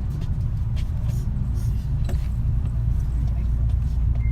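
Interior running noise of a Kintetsu 3220 series electric train (Hitachi IGBT inverter): a steady low rumble of wheels on rail, with scattered light clicks and rattles.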